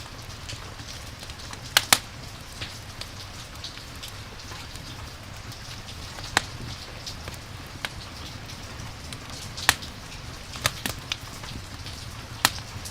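Campfire crackling with sharp, scattered pops, the loudest a quick pair about two seconds in, over a steady hiss of rain.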